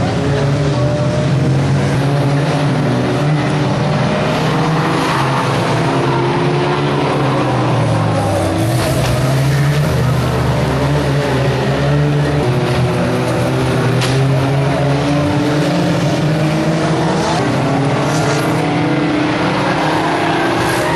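Several 1600cc banger racing cars' engines running hard together, their pitch rising and falling as they rev and lift off. A few sharp knocks cut through.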